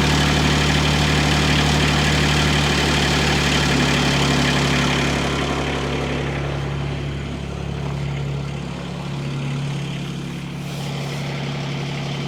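Hightop HT20 Pro mini excavator's diesel engine running just after a cold start, warming up; about halfway through it settles quieter and steadier, toward idle.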